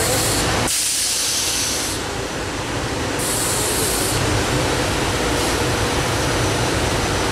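A train passing at speed: a steady rushing noise of wheels on rail with a low rumble, and a high hiss that comes and goes.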